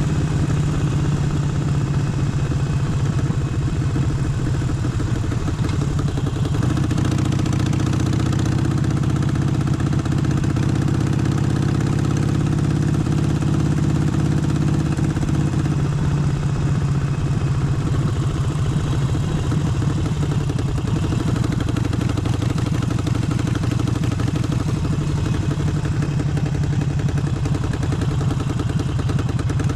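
Harley-Davidson Forty-Eight's air-cooled 1200 cc V-twin running steadily, its note growing fuller for about nine seconds in the middle before settling back.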